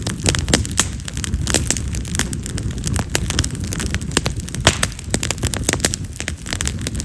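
Split wild cherry (yamazakura) firewood burning in an open fire, crackling with many sharp, irregular pops, several a second, over a low rumble of flame. Cherry wood pops hard, like firecrackers.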